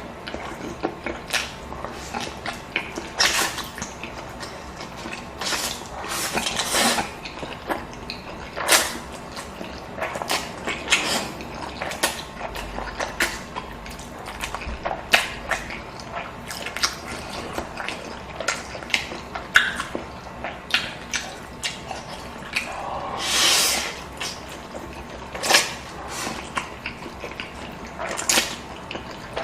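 Close-up eating sounds: irregular wet chewing and lip-smacking clicks, with a longer drawn-in noisy sound about three-quarters of the way through.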